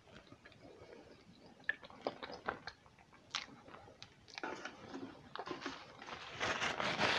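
A person chewing a sushi roll with the mouth close to the microphone: soft wet smacks and clicks, getting denser and louder about six seconds in.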